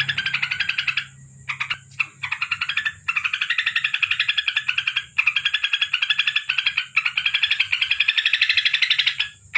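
Trucukan (yellow-vented bulbul) calling in long runs of rapid, rattling chatter, about fifteen to twenty notes a second. The runs are broken by several brief pauses.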